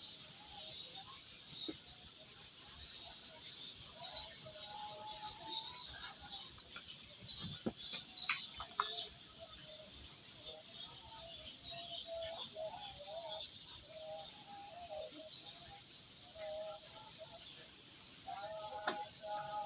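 Crickets chirring in a steady chorus of fast, even pulses.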